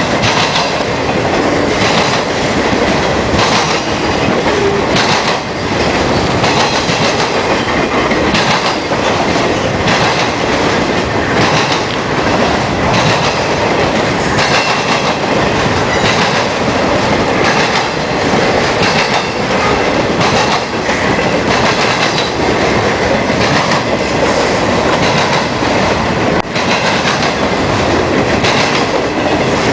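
Freight train of trailers on flatcars (piggyback intermodal cars) rolling steadily past close by: a continuous loud rumble of wheels and cars with repeated clacking of the wheels over the rails.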